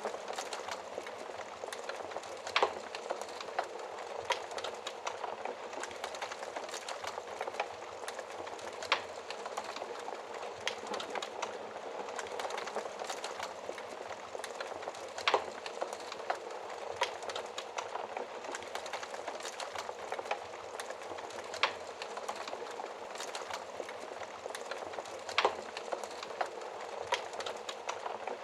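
Wood fire crackling in a fireplace: a steady hiss with frequent small crackles and a handful of louder pops from the burning logs.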